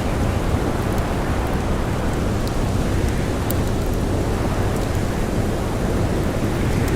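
Steady rushing wind of a blizzard, with a few faint crackles from a campfire.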